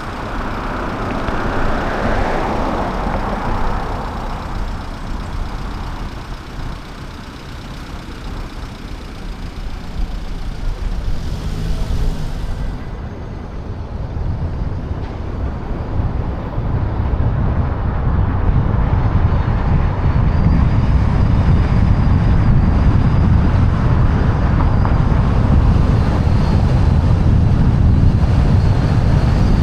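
Road and traffic noise heard from a car-roof microphone while driving, with wind rushing over the microphone. A hiss swells and fades in the first few seconds, and the low rumble grows louder from about halfway through and stays heavy to the end.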